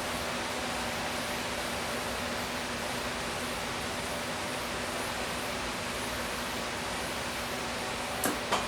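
Steady rushing noise of a running shop machine with a faint low hum. Two sharp clicks close together near the end.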